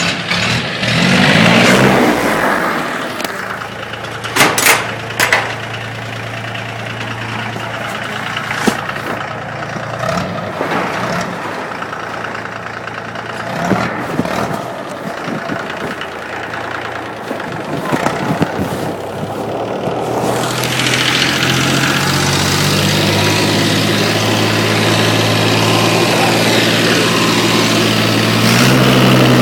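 A 1986 International tractor's diesel engine running, just started after sitting for a while. It picks up speed about a second in, idles with a few sharp knocks around four to five seconds in, then about twenty seconds in it is throttled up and runs louder and faster at a steady speed.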